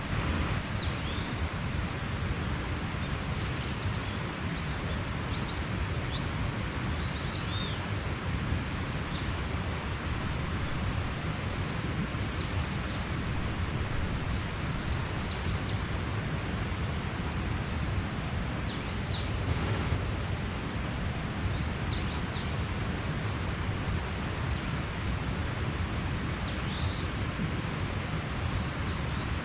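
Mountain stream running steadily, with small birds giving short high chirps every second or two.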